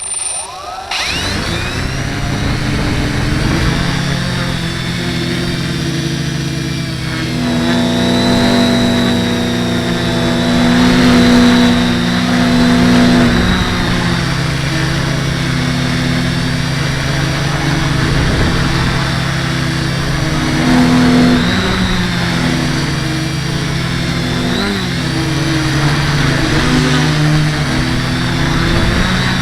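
H-frame quadcopter's electric motors and propellers spinning up within the first second, then running with a steady buzz. Several tones rise and fall together as the throttle changes. The uploader suspects the buzz comes from the propellers.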